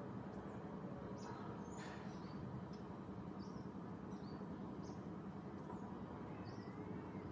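Wild birds calling: short, high chirps repeated about every half second over a steady low background noise, with a second bird's lower warbling call starting near the end.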